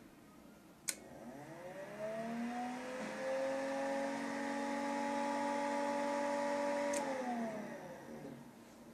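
A click, then an electric fan motor starting up, its hum rising in pitch over about two seconds and running steadily; near the end a second click cuts it off and the fan winds down, the hum falling away.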